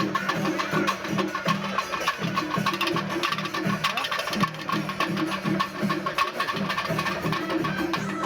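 Kerala temple festival percussion ensemble playing: drums with metal hand cymbals in a steady, fast rhythm.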